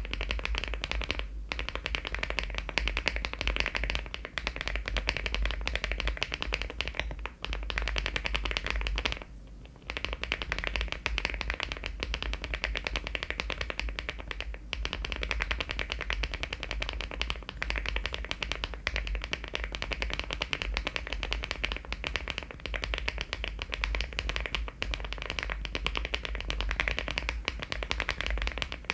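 Fast continuous typing on a LEOBOG Hi75 aluminium mechanical keyboard fitted with HMX switches and Cherry-profile keycaps: a dense run of keystroke clacks, with a short pause about nine and a half seconds in.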